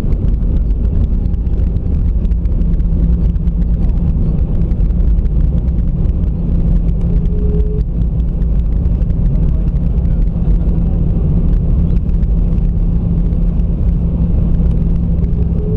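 Steady cabin rumble of an Airbus A320 on the ground after landing, its engines running with a constant low hum.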